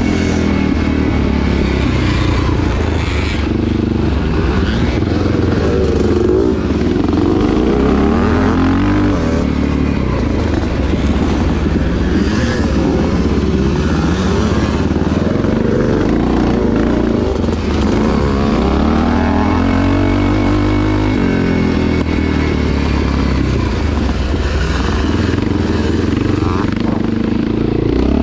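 Off-road motorcycle engine running hard through a motocross race, its pitch rising and falling again and again as the throttle opens and closes through the gears.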